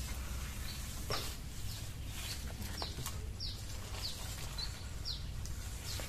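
Small songbird chirping repeatedly: short, high notes, most falling in pitch, every half second to a second. A few faint knocks are heard among them.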